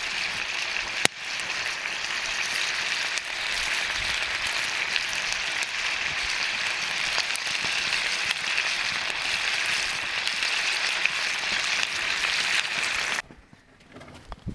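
Food sizzling in a hot pan: a steady crackling hiss that cuts off suddenly near the end.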